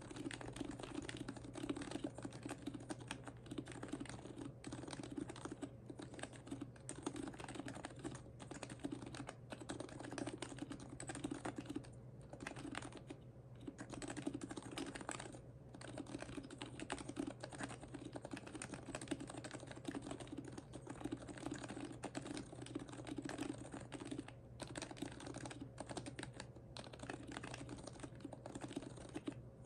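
Continuous typing on an HHKB Professional Hybrid Type-S keyboard with lubed, silenced Topre switches and PBT keycaps, mounted in a solid aluminum case: a dense stream of keystrokes broken by a few brief pauses.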